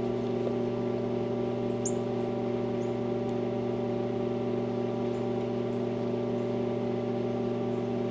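An engine running at a constant speed, a steady unchanging hum, with a few faint high chirps scattered over it.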